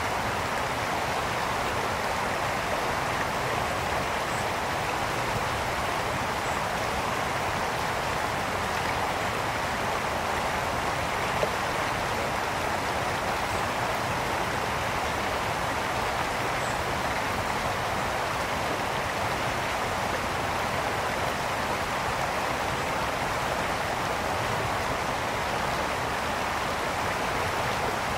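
Brook water flowing and splashing over stones in a steady, even rush.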